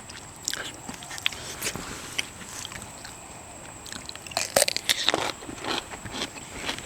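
Close-up eating sounds of someone biting and chewing seafood, with irregular wet clicks and crunches. There is a louder run of crunchy clicks about four and a half seconds in.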